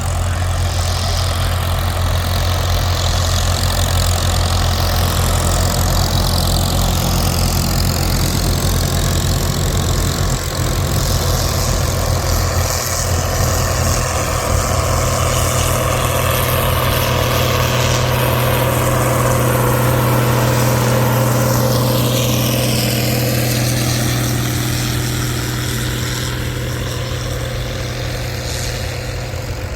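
Tractor engine running steadily, its low note rising slightly in pitch about halfway through.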